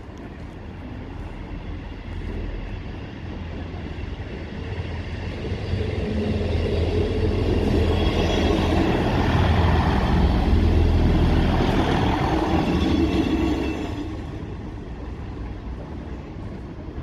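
Class 158 diesel multiple unit passing. The engine drone and rail noise build from about five seconds in, are loudest around ten seconds in, and fall away after about fourteen seconds.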